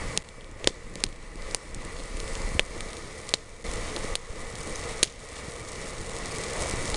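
Small wood campfire crackling, with a sharp pop every half second to a second. No lighter burst is heard.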